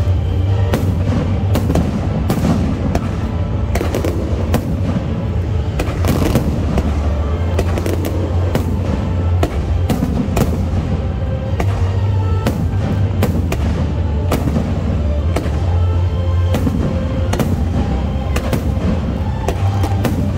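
Aerial fireworks shells, many of them 3-inch, bursting in a rapid, continuous barrage, several sharp bangs a second, over loud show music with a heavy bass.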